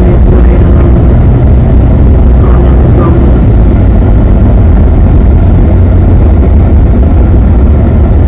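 Loud, steady low rumble of a moving car: road and engine noise.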